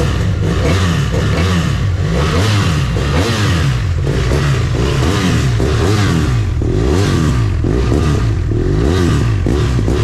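BMW F800R's two-cylinder Rotax engine being revved with repeated throttle blips, its pitch rising and falling about once a second.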